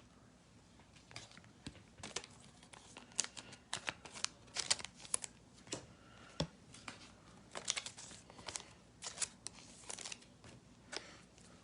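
Trading-card pack wrapper being handled and torn open, with the cards shuffled, heard as faint, scattered crinkles and short clicks.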